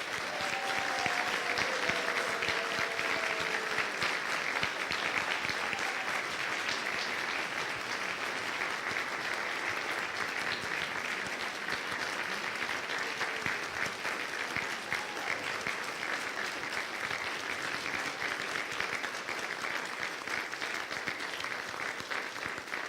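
Congregation applauding: a long, steady round of dense clapping from a room full of people, with a voice or two calling out in the first few seconds.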